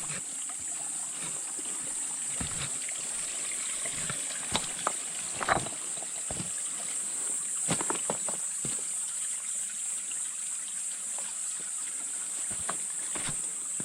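A steady, high-pitched insect drone, with irregular footsteps crunching on a trail; the sharpest crunch comes about five and a half seconds in.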